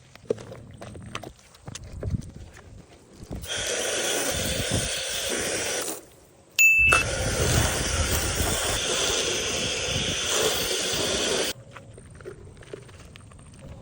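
Water spraying hard from a car-wash spray nozzle, a steady hiss in two long runs with a short break about six seconds in. Quieter scattered taps and scraping come before and after it.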